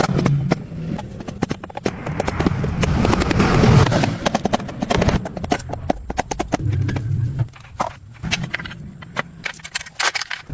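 Rapid, irregular knocking and clicking from hand work on a truck radiator, with quieter gaps about seven and nine seconds in.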